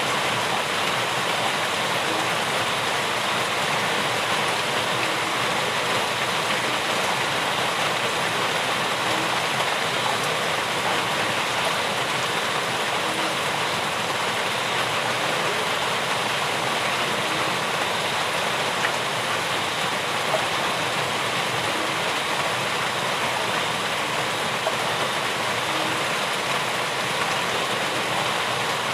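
Steady, continuous rain falling, an even hiss of water that does not let up.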